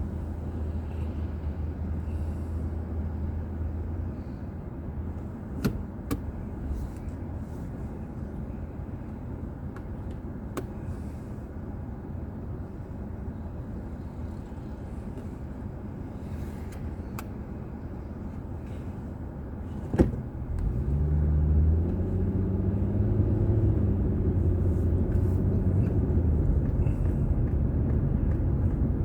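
A car's engine and road noise, picked up inside the cabin by a dashboard recorder. It is a low, steady hum that drops quieter for a long stretch, with a few faint clicks. About 20 seconds in there is one sharp click, and then the engine rises in pitch and grows louder as the car pulls away and accelerates.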